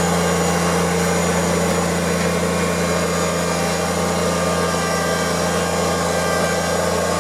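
Kubota tractor's diesel engine running at a steady speed with a constant hum.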